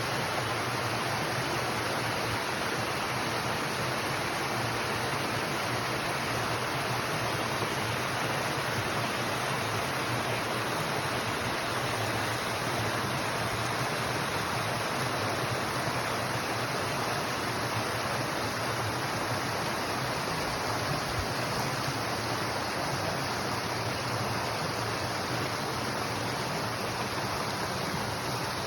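Steady rushing of flowing water, an even unbroken noise with no change in level.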